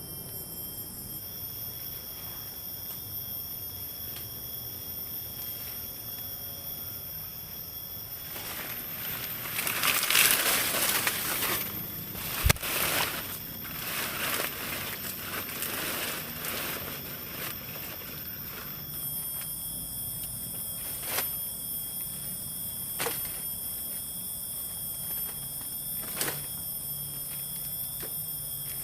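Forest background with a steady high-pitched insect drone. Partway through comes a stretch of rustling and handling noise with a sharp knock, followed by a few isolated clicks.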